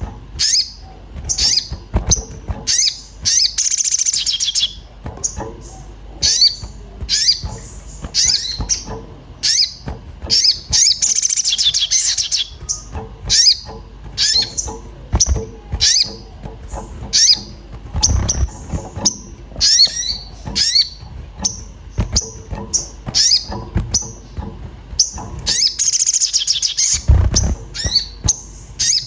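Sogon (little spiderhunter) calling agitatedly: a string of sharp, high 'cuit cuit' chirps, several a second, broken by short rapid chattering runs about four, eleven and twenty-seven seconds in.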